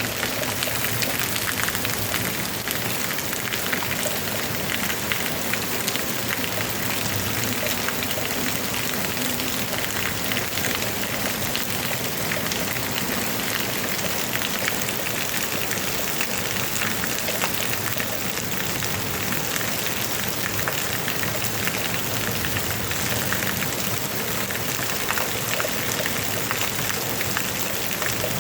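Heavy rain falling steadily, a dense hiss of countless drops striking surfaces.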